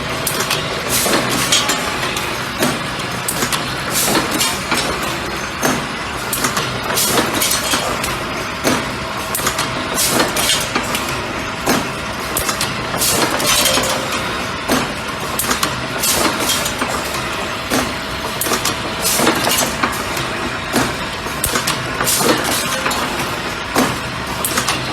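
Automatic bucket-handle making machine running, with a steady mechanical hum and sharp metallic clacks repeating in a cycle of about three seconds, often two in quick succession, as it forms handles and fits plastic grips onto them.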